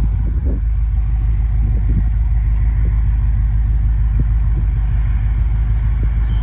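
2013 BMW M5's twin-turbo V8 idling, a steady low rumble heard from behind at the quad exhaust tips.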